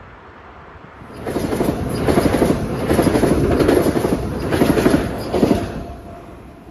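Metro-North M8 electric multiple-unit train passing close by, its wheels clattering rapidly over the rail joints in a loud rumble. The rumble builds about a second in and fades away near the end as the train moves off.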